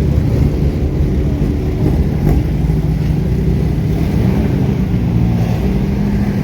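Race car engines running near idle, with the engine note shifting slightly in pitch about four seconds in.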